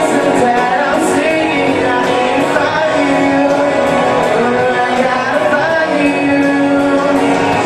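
Live music: a man singing over guitar and band accompaniment, steady and loud, in a large room.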